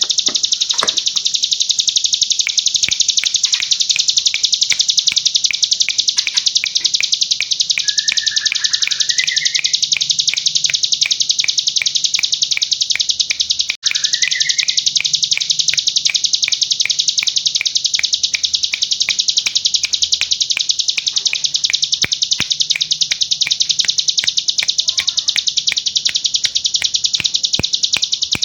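Ciblek gunung (hill prinia) singing a long, very rapid, high buzzing trill of repeated notes, broken only once about halfway through, with a few short rising whistled notes mixed in.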